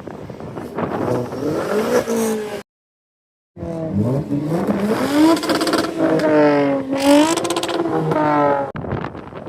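A car engine revving up, its pitch rising, then revving again and holding high with a dip and a further climb, as in hard acceleration. The sound cuts out completely for about a second partway through.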